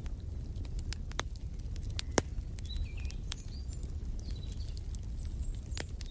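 Wood fire crackling and popping over a steady low rumble, with one louder pop a little over two seconds in. Faint bird chirps come in the middle.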